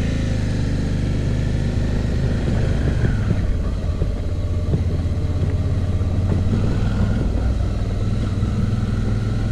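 Suzuki V-Strom's V-twin engine running steadily while riding a rough dirt road, with scattered short knocks and rattles from the bumps.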